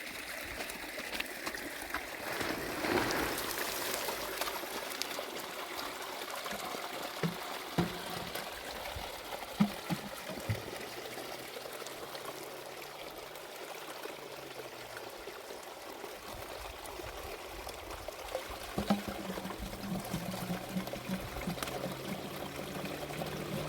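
Steady rush of running or pouring water, with a few sharp knocks about a third of the way in and again near the end.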